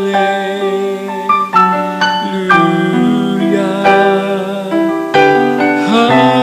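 Keyboard playing slow, sustained chords of a worship song, changing chord every second or so, with no voice.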